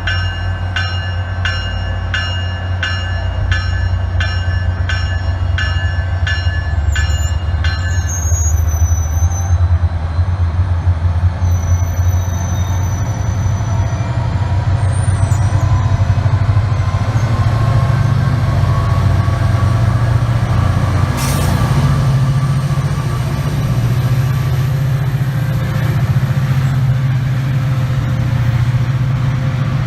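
A train rumbling past, with a bell ringing about once a second for the first eight seconds. After that, thin high wheel squeals come and go over the steady rumble.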